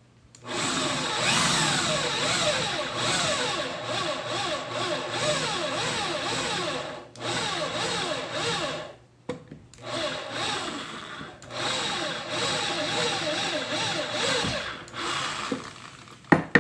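A motor revving up and down over and over in spurts, its pitch sliding up and falling back, stopping briefly and starting again several times. A sharp knock near the end.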